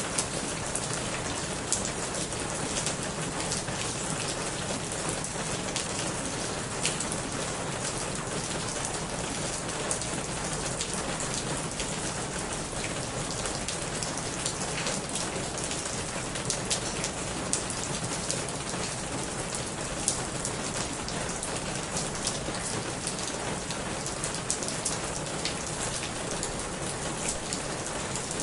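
Steady rain falling on a corrugated roof and wet leaves, with many sharp drop taps scattered through.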